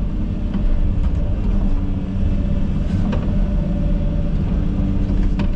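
Komatsu 360 excavator's diesel engine running steadily under load while the machine tracks, a deep rumble with a steady hum over it and a couple of brief knocks about three seconds in and near the end.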